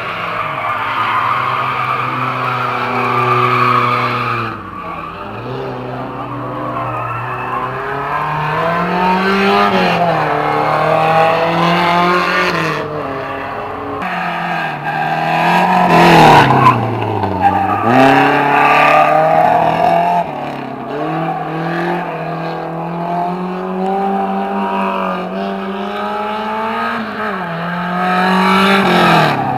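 Fiat 125's 2.0 litre twin-cam four-cylinder engine revving hard around a track, its pitch climbing and dropping again and again through the gears and corners. It is loudest about halfway through as the car passes close by.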